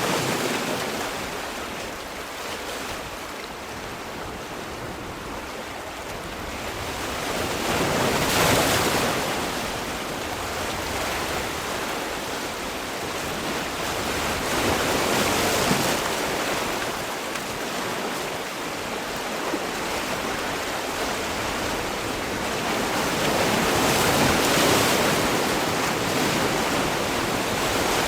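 Sea waves breaking and washing on a shore, the surf swelling and easing, with three louder breaks about eight, fifteen and twenty-four seconds in.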